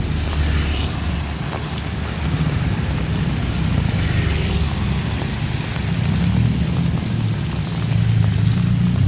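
A motor vehicle's engine running with a low hum that shifts in pitch and grows louder toward the end as it approaches. A steady hiss of rain runs underneath.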